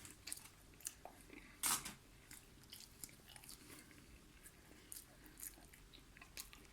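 A person chewing and biting food close to the microphone, with scattered soft crunchy clicks; the loudest bite comes a little under two seconds in.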